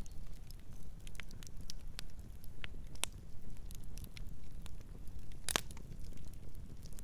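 Wood fire crackling, with scattered sharp pops and snaps over a low steady rumble; the loudest pop comes about five and a half seconds in.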